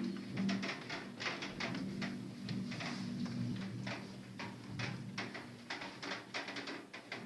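Raindrops tapping irregularly, several a second, over a low steady hum.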